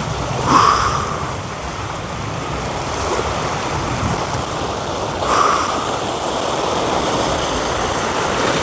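Waves washing steadily on the shore, with two short louder surges, about half a second in and about five seconds in.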